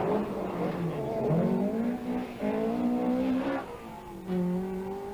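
Rally car engine accelerating hard through the gears, its pitch climbing and then dropping at each shift, about three times.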